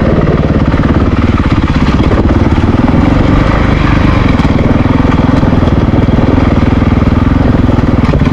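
Honda CRF450RL's single-cylinder four-stroke engine running steadily at low revs, engine braking down a steep, loose descent.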